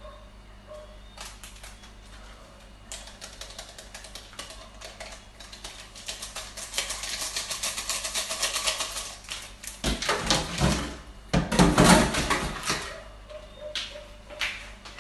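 Kitchen clatter: scattered clicks and knocks of dishes and utensils being handled, thickening into rapid clattering and a louder run of knocks about ten to thirteen seconds in.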